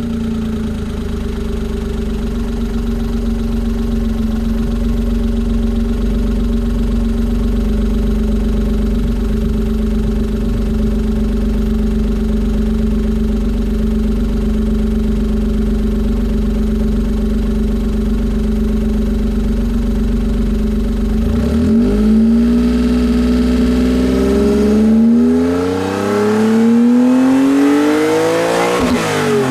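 Suzuki Alto Works HA11S three-cylinder 660 cc turbo engine through a Suzuki Sport TYPE-St sport muffler, held at one steady engine speed for most of the time. It is then blipped several times, rising and falling, with a higher rev near the end.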